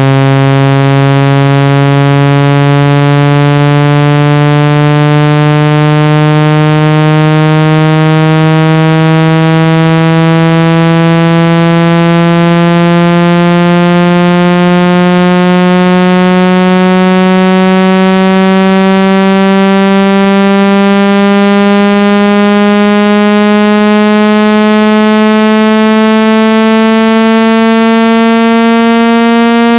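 Synthetic buzzy test tone, rich in overtones, gliding slowly and steadily upward in pitch: a low-frequency sweep played through a phone speaker to shake water and dust out of it.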